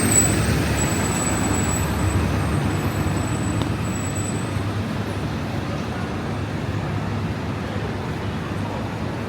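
Steady noise of city street traffic, with vehicles running and passing and gradually easing off. A thin, high steady whine sits over it for the first half.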